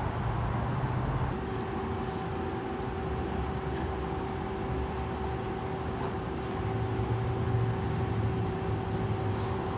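Steady machine hum: a continuous low rumble with a thin, steady whine that comes in about a second and a half in.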